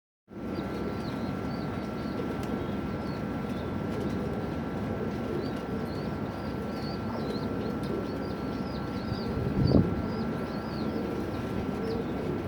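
Kept birds: many short, quick, high chirps over a steady low murmur of bird sounds and a faint steady hum. There is a brief low thump about ten seconds in.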